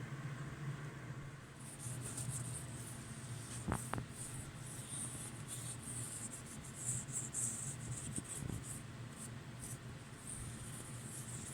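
Light, irregular scratchy rubbing, with two quick clicks about four seconds in, over a steady low hum.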